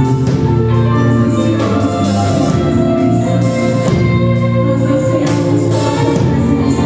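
Live gospel worship music: a church praise band playing with voices singing.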